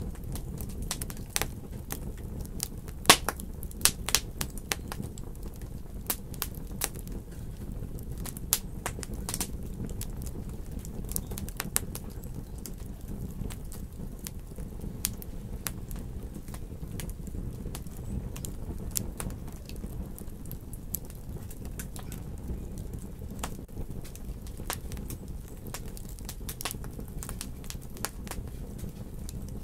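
Wood fire in a fireplace crackling: irregular sharp pops and snaps over a steady low rumble of burning, with the loudest pop about three seconds in.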